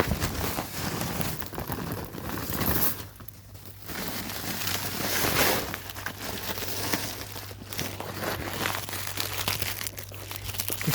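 Plastic bag of corn seed crinkling and rustling irregularly as it is handled, with a low steady hum coming in about three seconds in.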